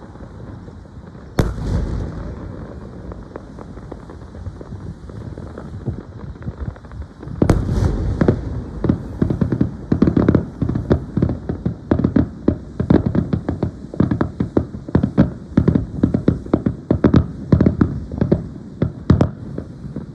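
Aerial fireworks shells bursting: a single sharp boom about a second in, another about seven seconds in, then a rapid barrage of booms, several a second, through the second half.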